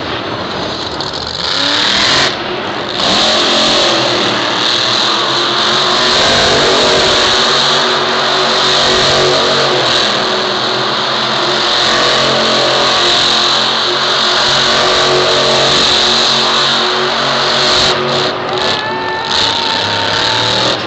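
Monster truck engine running loudly at high revs, with a short drop about two seconds in and breaking off near the end.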